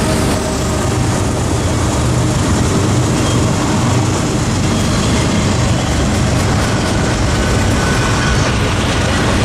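Freight train passing close by: a loud, steady rumble and rush of wheels on rail that holds throughout.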